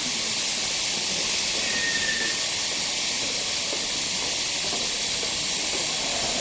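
Subway train running, a steady hissing rush with no breaks.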